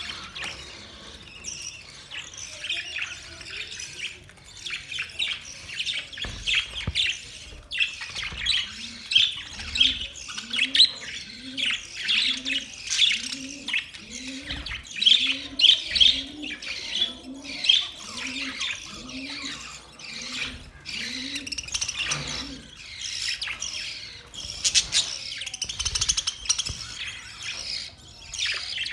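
A flock of budgerigars chirping and chattering continuously in quick, high twittering calls. From about eight seconds in until about twenty-two seconds, a low note repeats underneath, roughly once every three-quarters of a second.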